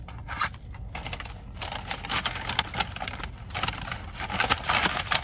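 Close-up chewing of a mouthful of food: dense wet clicks and crunches, sparse at first and busier from about a second and a half in.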